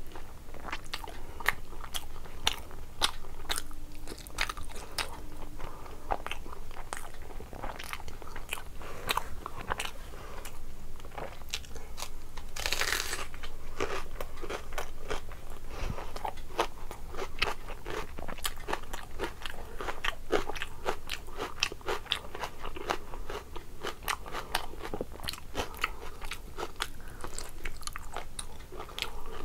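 Close-miked eating: a person chewing rice and meat curry with many wet, sticky mouth clicks and crunchy bites, including raw onion.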